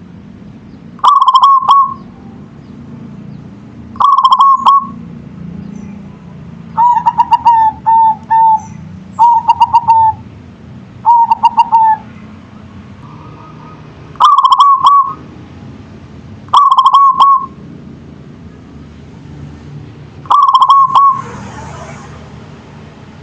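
Zebra dove (perkutut) cooing: eight phrases a few seconds apart, each a quick run of short notes.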